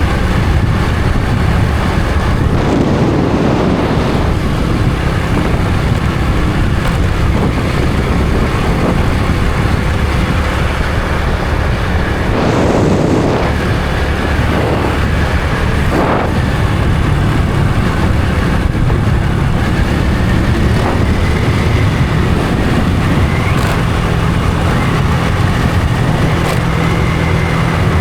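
Honda Supra X 125 FI's single-cylinder four-stroke engine running steadily while the motorcycle is ridden, with a few brief louder noise swells around 3 and 13 seconds in.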